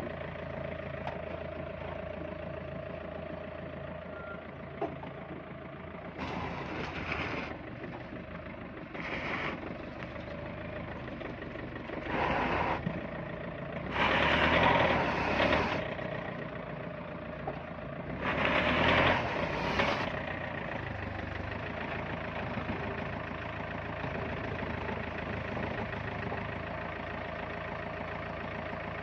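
A vehicle's engine running steadily, with five louder rushing surges between about six and twenty seconds in.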